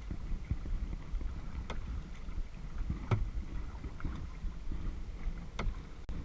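Kayak paddling on a lake: water washing and lapping around the hull with a steady low wind rumble on the microphone, and three short sharp knocks from the paddle strokes a second or two apart.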